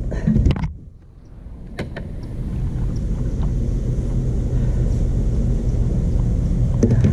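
Stump grinder's 13 HP Honda engine running with a steady low rumble. The sound falls away sharply about a second in, then builds back up over the next two seconds.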